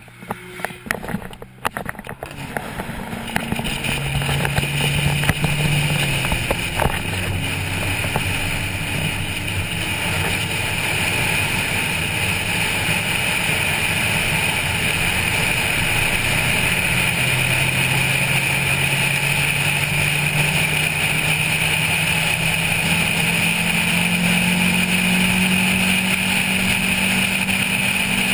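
A Honda Civic's 1.5-litre four-cylinder engine pulling at track speed, mixed with steady wind and road noise. A few knocks and clicks come in the first few seconds. The engine note dips once and then climbs slowly over the last ten seconds as the car gains speed.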